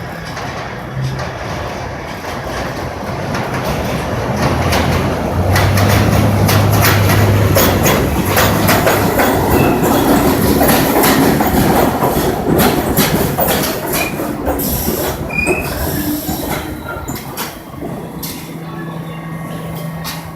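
R62 subway train running along the track: wheels clattering over rail joints with bouts of high-pitched wheel squeal. It grows louder over the first few seconds, stays loud through the middle and quietens near the end.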